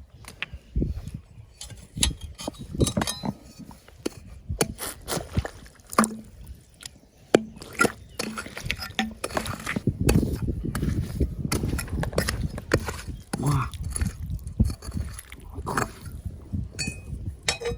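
Stones and gravel clinking and knocking against each other at irregular intervals, with water sloshing; the handling gets denser and busier in the second half.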